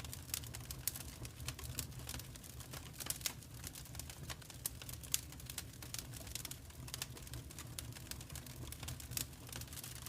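Wood fire crackling: irregular sharp pops and snaps over a low, steady rumble of burning flames.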